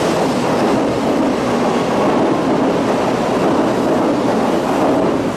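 Tokaido Shinkansen train pulling out of the platform and running past close by: a loud, steady rush of wheel and running noise.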